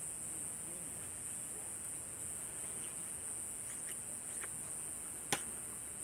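Wood campfire with a steady high-pitched insect chorus of a summer night, a few faint crackles from the fire, and one sharp pop about five seconds in.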